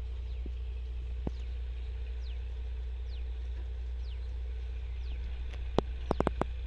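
A bird repeating a short, falling whistled note about once a second over a steady low hum, with a single sharp click about a second in and a quick cluster of four or five sharp clicks near the end.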